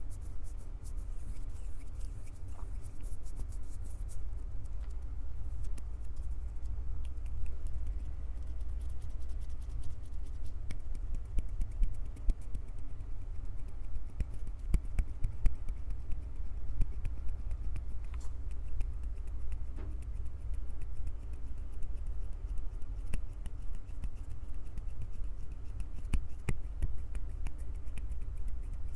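Hands gripping, squeezing and rubbing a Tascam handheld recorder right on its microphones: a steady low handling rumble with many small crackles and clicks.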